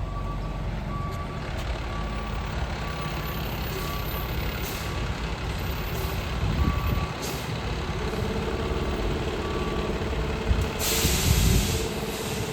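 Fire truck engine running as the truck reverses, its backup alarm beeping in a steady repeating pattern until about three quarters of the way through. Near the end comes a loud hiss of air lasting about a second, typical of the air brakes being set.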